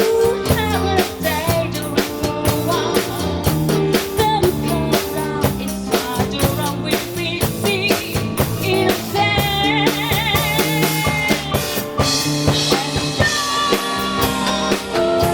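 Latin fusion band playing live: a drum kit with rimshots, snare and bass drum keeps a steady beat under bass and chords. A lead melody with vibrato comes in at the middle.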